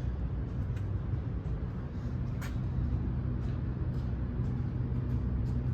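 Steady low machinery rumble and hum, with a few faint light clicks; the hum steadies and firms up about two seconds in.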